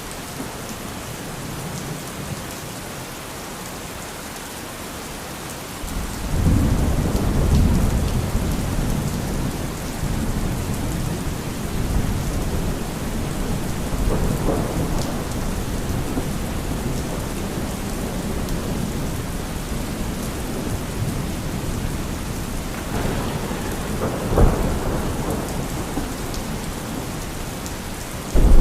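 Thunderstorm: steady rain falling, with a long rumble of thunder building about six seconds in and slowly dying away, and a sharper thunderclap a few seconds before the end.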